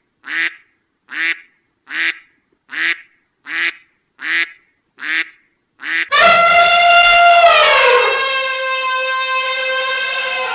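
Animal calls: a run of eight short, evenly spaced calls, then one long pitched call that drops in pitch partway through and holds.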